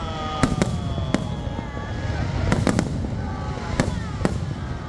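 Fireworks bursting in the air: about seven sharp bangs, some in quick pairs, over a steady low rumble.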